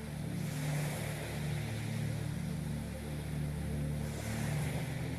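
Slow ambient meditation music: a low sustained drone with slowly shifting deep notes, and two soft rushing swells, about half a second in and near the end.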